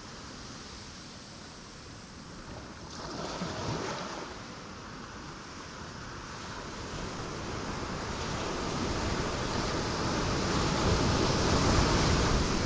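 Ocean waves breaking on rocks: a smaller surge about three seconds in, then the wash building slowly to its loudest, a crashing wave, near the end.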